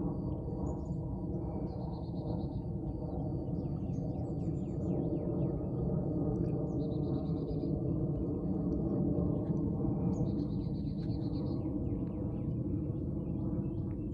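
Songbirds singing: a short high trill repeated every four seconds or so, with scattered quick chirps in between. All of it sits over a loud, steady low rumble of noise.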